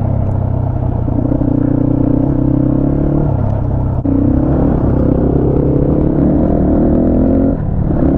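250 cc motorcycle engine running while riding, a steady loud note that steps up and down in pitch a few times as the throttle changes.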